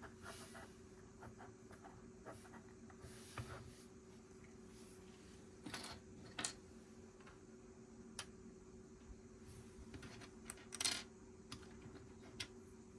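Small plastic Lego pieces being handled and pressed together: scattered light clicks and taps, a few sharper ones, over a steady low hum.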